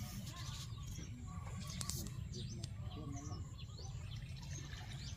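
Small birds chirping, many short quick calls overlapping, over a steady low rumble.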